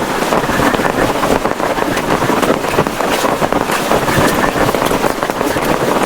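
Heavy rain pelting down in strong wind: a loud, steady rush made up of countless drops striking.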